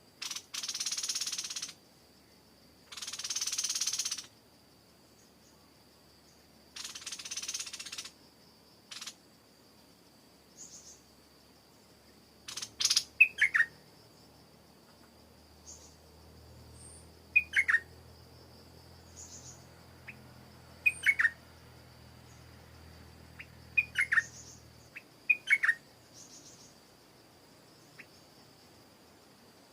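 Stripe-throated bulbul giving clusters of short, sharp calls that drop steeply in pitch, every few seconds, over a steady high insect whine. Near the start there are three long, harsh hissing bursts.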